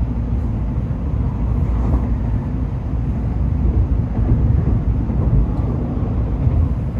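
Steady low rumble of a Shinkansen train running, heard from inside the passenger cabin.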